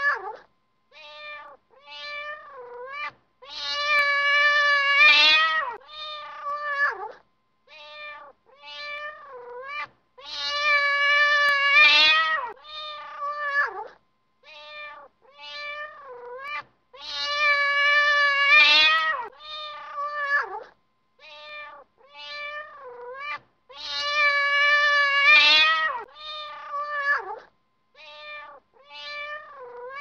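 Cat meowing: several short meows, then one long, drawn-out meow. The same sequence repeats almost identically about every seven seconds, as a looped meow sound effect.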